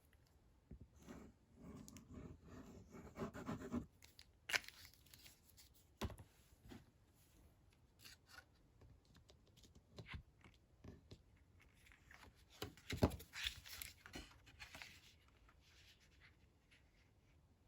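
Card stock and paper being handled as glue is put on a card insert: a rough, rapid rasp for about three seconds near the start, then scattered light taps and rustles, with a brief louder cluster about two-thirds of the way through.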